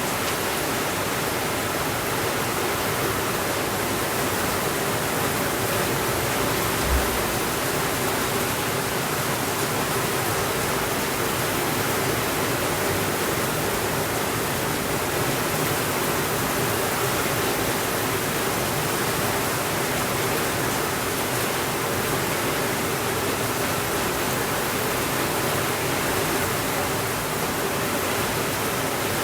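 Steady rainfall, an even rushing hiss with no pauses. About seven seconds in there is one brief low thump.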